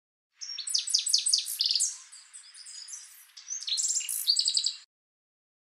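Songbird chirping in quick series of high notes and trills. It is louder at first, softer in the middle and louder again, then cuts off abruptly just before five seconds in.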